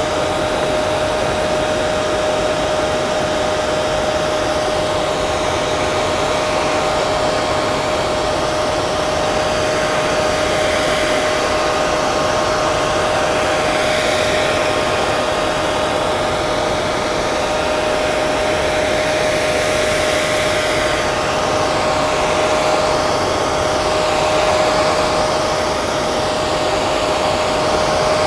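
Hair dryer running steadily: a constant rush of blown air with a steady motor whine on one pitch and a slow, gentle wavering in the hiss.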